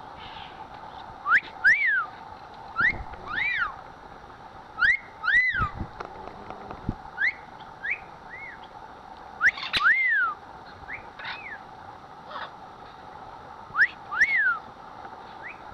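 Parrots giving short whistles, each rising and then falling in pitch, about a dozen of them at irregular intervals.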